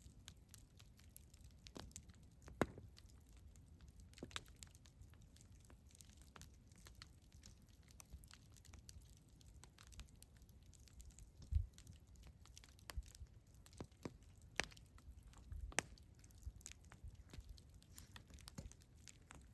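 Campfire crackling: irregular small pops and snaps over a low soft rumble of the flames, with a few louder pops, the sharpest about two and a half seconds in and near the middle.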